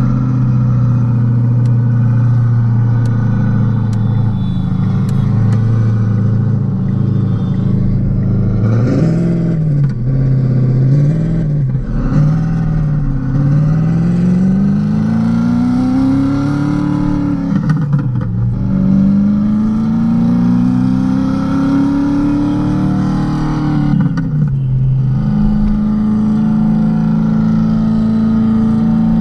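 Modified Renault Kwid 0.8's three-cylinder engine: steady at first, then revving briefly up and down a few times, then pulling hard in two long rising sweeps, each cut off by a drop in pitch at a gear change, before settling into a steady higher note.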